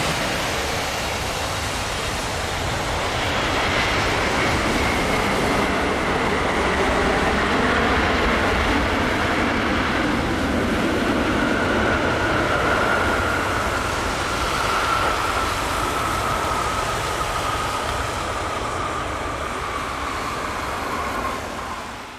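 Jet noise from a Boeing 777-300ER's GE90 engines: a loud, steady rush with a whine that slowly falls in pitch over the whole stretch.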